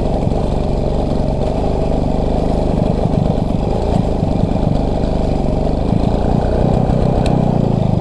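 Voskhod 350 motorcycle engine running steadily just after being restarted. It is running on battery power alone, with no working generator or cooling system, after a stall the rider blames on a closed fuel tap.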